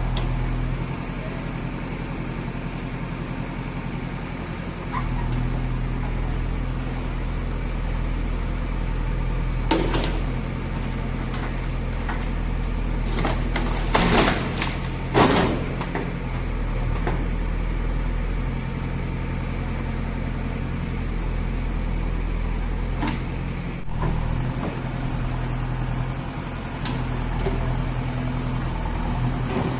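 JCB 3DX backhoe loader's diesel engine running steadily, with a few sharp clanks of the machine's metal parts, loudest in a cluster around the middle.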